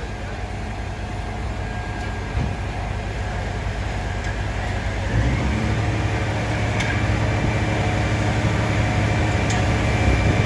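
A heavy diesel engine running amid steady street noise. A deeper engine hum comes in about halfway through and grows gradually louder.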